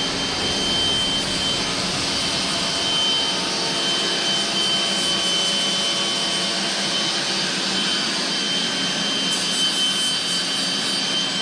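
Power grinder running steadily at full speed with a constant high whine, cutting in and out abruptly.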